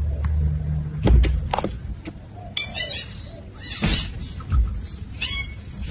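Parrot chattering in a quick run of short, high, squeaky calls that starts about halfway through, after a low rumble and a few sharp clicks.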